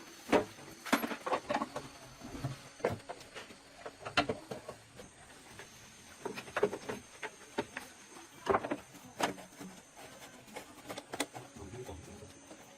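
Irregular clinks and knocks of hand tools and metal parts being handled during motorcycle repair work, coming in short clusters of sharp taps.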